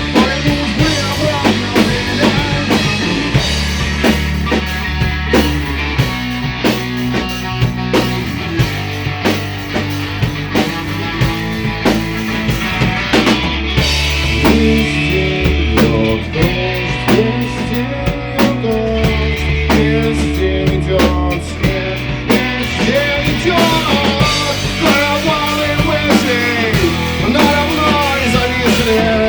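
Three-piece rock band playing an instrumental passage with no singing: guitar carrying bending melodic lines over bass guitar and a steady drum-kit beat.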